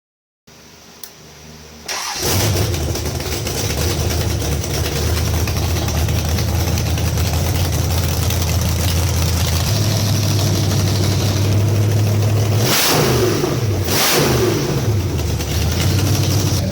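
A 426 Hemi V8 in a 1968 Dodge Charger R/T catches and starts about two seconds in, then runs steadily, with two quick throttle blips near the end.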